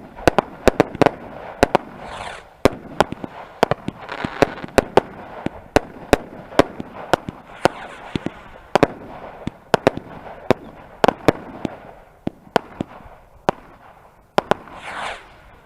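Fireworks display: a rapid, irregular string of sharp bangs, several a second, with bursts of hissing between them.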